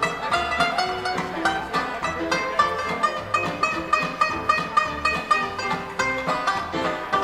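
Live dance orchestra playing a 1920s–30s style dance tune with a steady, even beat.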